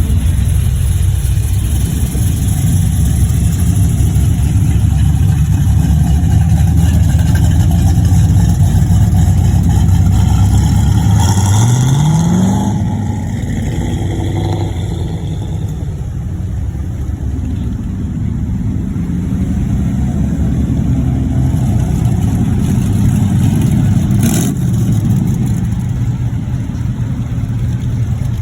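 Truck engine running while cruising, a steady low rumble. About twelve seconds in, its pitch rises sharply as it revs, then the engine sound settles lower and somewhat quieter.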